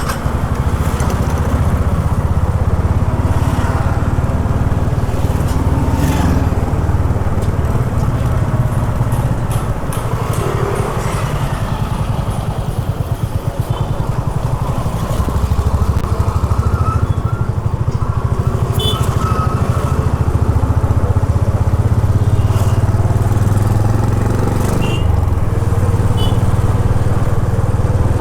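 Honda H'ness CB350's single-cylinder engine running steadily in city traffic, easing off a little about halfway through and then pulling again.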